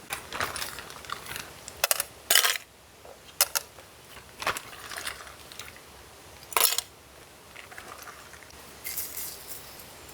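Camp cookware and gear being handled: a series of irregular clinks and clacks, the sharpest about two and a half seconds in and again near seven seconds.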